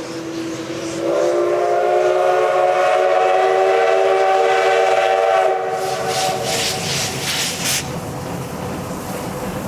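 Steam locomotive whistle blowing one long blast that swells louder about a second in and holds for several seconds before dying away. Near the end come a few rapid chuffs of the locomotive's exhaust as it works.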